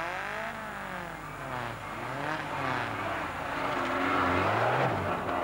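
Lada Niva 4x4's engine revving up and down repeatedly as it drives over rough grass, growing louder as it comes close about four seconds in.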